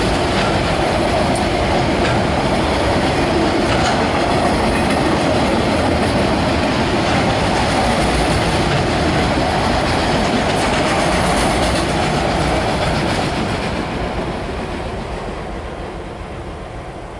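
Norfolk Southern freight train's autorack cars passing over a grade crossing. The wheels and cars make a steady rail noise that fades over the last few seconds as the end of the train moves away.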